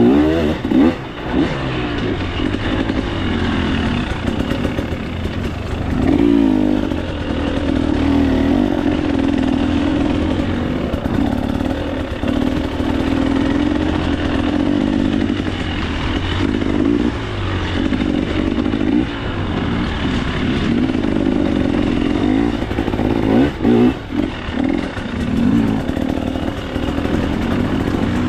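2024 KTM 300 XC-W single-cylinder two-stroke dirt bike engine running under load, revving up and dropping off again and again as the throttle is worked.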